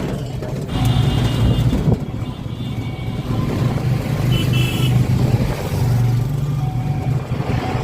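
Road traffic: motor vehicles running with a steady low rumble, and short high horn-like beeps about a second in and again at about four and a half seconds.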